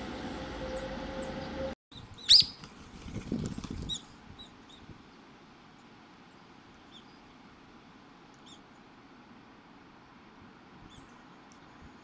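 A steady hum cuts off abruptly after about two seconds. A single sharp, loud, high sound follows, then a few faint, short, high bird chirps scattered over a quiet background.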